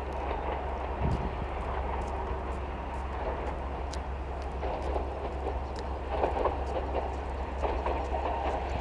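Sangi Railway electric train passing at a distance: a steady rumble of wheels on the rails with a few light ticks.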